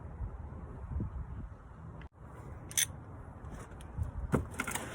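A few sharp metallic clicks and knocks from a socket wrench and hand tools working on a car's suspension bolts, over a low background rumble.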